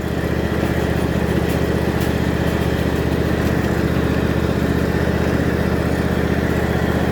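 Tractor engine running steadily while driving, holding its speed without bogging down.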